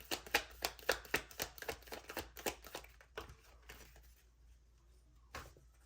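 Tarot deck shuffled by hand: a quick, even run of card snaps about four a second that thins out and stops about three seconds in, then a single card click near the end.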